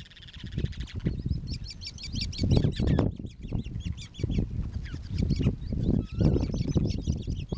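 Birds calling in rapid series of short high chirps, in two bouts, over wind buffeting the microphone in irregular low rumbling gusts.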